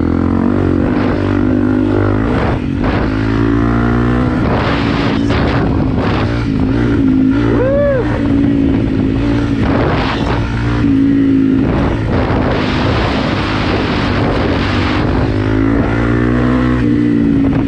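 Honda CRF250 Rally's single-cylinder four-stroke engine running on an off-road ride, its pitch rising and falling a little with the throttle, with bursts of wind rush.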